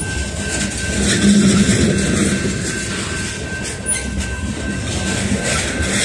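Freight train gondolas and boxcars rolling past close by, their steel wheels rumbling steadily and clacking over the rail joints.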